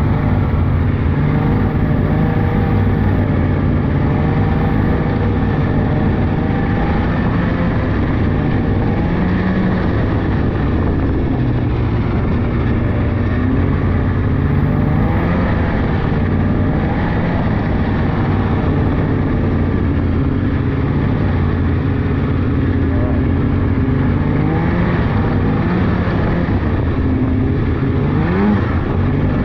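Polaris 600cc two-stroke snowmobile engine running at cruising speed on a trail. Its pitch wavers gently up and down as the throttle changes, and climbs quickly near the end.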